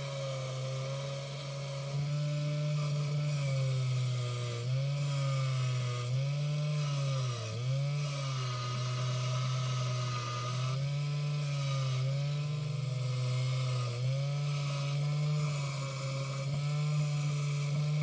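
Small electric motor of an HO scale model locomotive running steadily with its wheels spinning. The pitch dips and recovers every second or two as the wheels are loaded and freed against the cleaning material.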